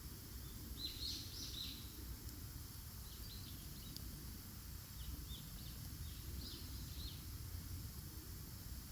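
Small birds chirping in short clusters of high calls, about a second in and again past the middle, over a low steady rumble.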